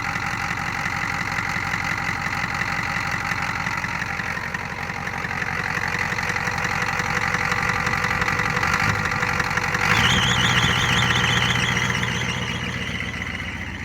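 Ford 6.9 IDI V8 diesel idling with its clattering knock, held at a high idle by a sticking fast idle. About ten seconds in it gets louder, with a wavering whine added, then eases off near the end.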